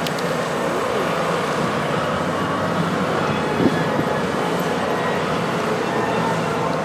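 Several heavy motorcycles running at low speed in close formation, a steady mixed engine drone with no single bike standing out.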